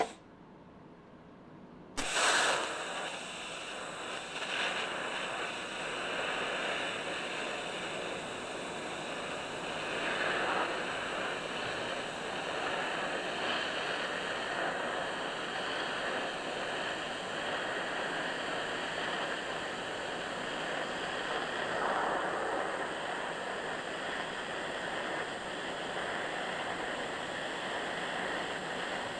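Welding arc crackling and hissing steadily as a continuous bead is run across a patch in a steel car quarter panel. It starts abruptly about two seconds in.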